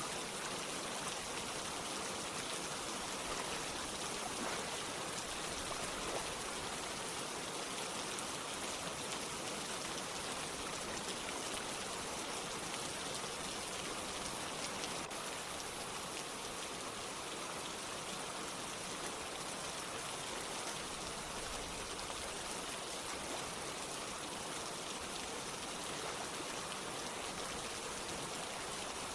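Steady rain with running water: an even hiss of falling rain and a few distinct drops, with no change in level.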